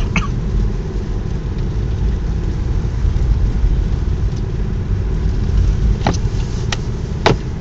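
Car engine and road noise heard from inside the moving car: a steady low rumble, with three brief sharp clicks near the end.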